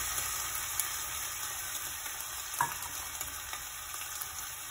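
Cauliflower sizzling in hot oil in a non-stick pan as water is poured in, the sizzle slowly dying down while it is stirred with a spatula. A sharp knock about two and a half seconds in, the spatula striking the pan.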